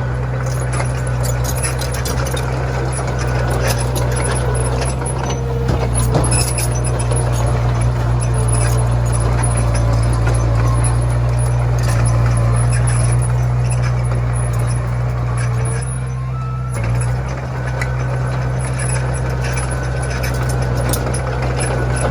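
Komatsu mini bulldozer's engine running steadily, with scattered clanks and rattles.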